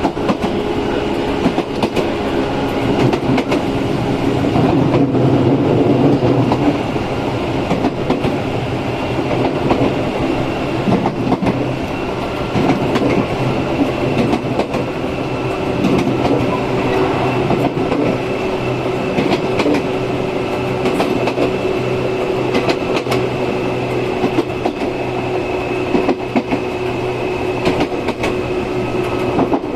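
Izukyu 8000 series electric train running, its Hitachi-built traction motors giving a low hum under a thin high whine. The wheels click irregularly over rail joints.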